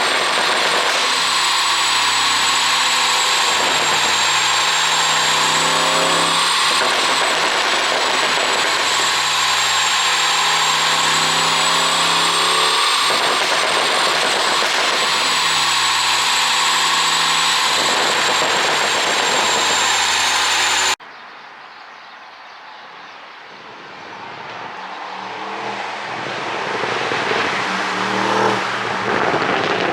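Porsche Cayenne Turbo Coupe's twin-turbo V8 running and being revved in repeated cycles under a steady high whine. About two-thirds of the way in the sound cuts off sharply, then the engine sound builds up again, getting louder toward the end.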